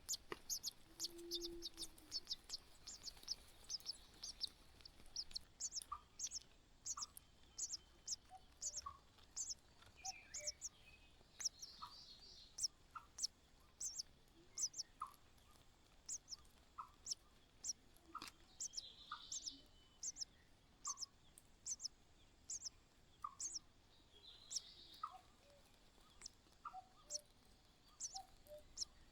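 Small bird chirping: short, sharp, high calls repeated steadily, about three a second at first and then one or two a second, with softer lower notes in between.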